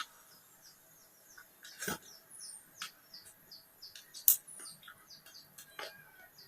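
Small birds chirping in background: a run of short, high, falling chirps repeated every half second or so. A few sharp clicks cut in, the loudest about four seconds in.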